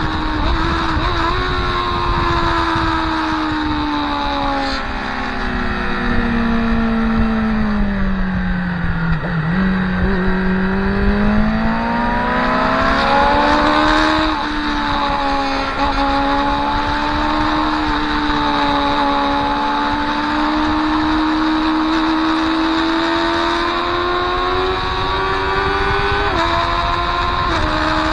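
Motorcycle engine heard from on board at speed. It winds down steadily as the bike slows for a corner, then climbs hard under acceleration, with sudden drops in pitch at upshifts, one in the middle and one near the end, over a steady rush of wind.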